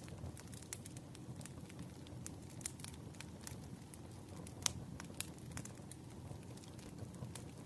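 Wood fire crackling: irregular sharp pops and snaps over a low steady burning hiss, with one louder pop a little past halfway.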